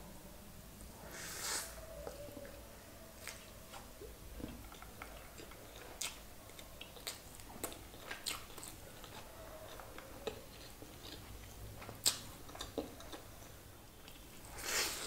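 Close-miked chewing and biting while eating chicken biryani by hand, with many small wet mouth clicks and smacks. There are two louder, breathy bursts, one about a second and a half in and one near the end.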